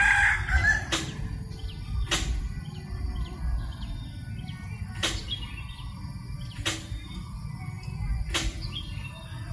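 The last of a rooster's crow, then five sharp clicks at uneven intervals over a steady low wind rumble on the microphone, with faint bird chirps.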